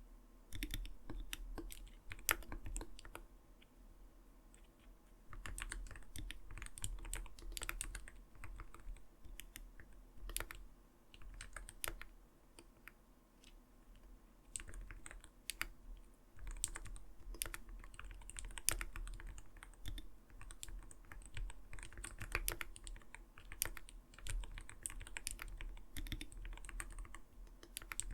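Typing on an Arbiter Studio Polar 65 gaming keyboard: keystrokes with a soft, not-too-light "kotokoto" clack, in runs broken by a couple of brief lulls.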